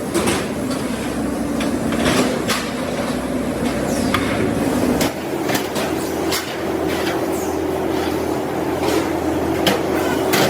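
Workshop machinery running with a steady hum, with irregular knocks and clicks throughout; the hum's pitch changes abruptly about halfway through.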